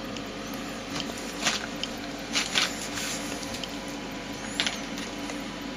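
Electric drill motor running with a steady hum, with a few light clicks and knocks from handling.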